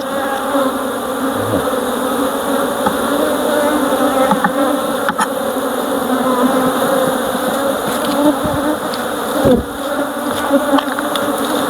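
Honeybees buzzing loudly around an opened hive: a steady, dense hum of many wings, with one bee passing close by, its pitch dropping, about nine and a half seconds in.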